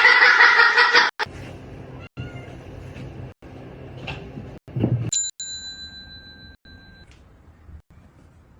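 A cat meowing loudly for about the first second, then quieter sounds. About five seconds in comes a bell-like ding that rings for about two seconds.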